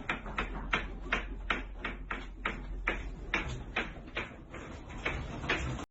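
A series of light, irregular taps or knocks, a few a second, over a low steady hum, fading slowly and then cutting off suddenly near the end.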